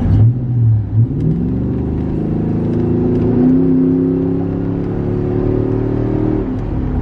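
Pickup truck engine pulling under acceleration, heard from inside the cab: its pitch climbs over the first few seconds, holds steady, then drops near the end as the driver eases off.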